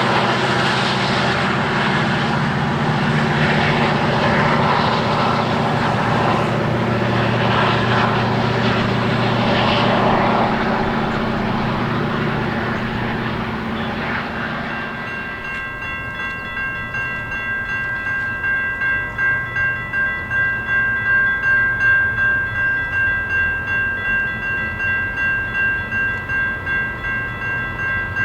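A train passing, its locomotive engine and wheel noise dying away over the first half. Then a high ringing tone starts, pulsing steadily about one and a half times a second, typical of a grade-crossing bell.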